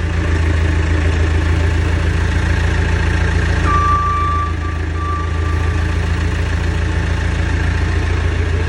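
Diesel engine of a 214E backhoe loader running steadily at idle. A high steady beep-like tone sounds briefly about four seconds in, broken once or twice.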